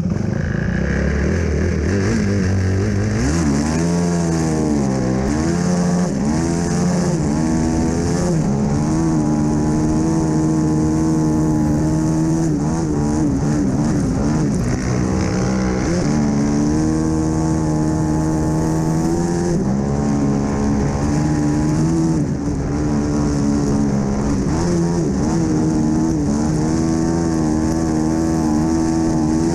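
Onboard sound of a studded-tyre ice-racing motorcycle's engine pulling away from a standstill, then revving up and down again and again with the gear changes and throttle through the turns, with a steady hiss over it.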